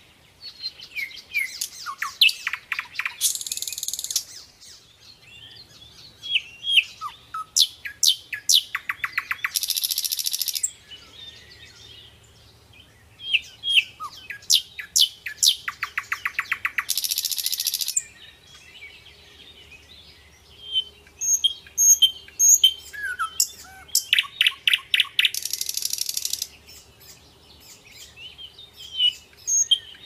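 A songbird singing the same song over and over, four times: chirps and sweeping whistles, then a fast trill ending in a buzzy rattle about a second long.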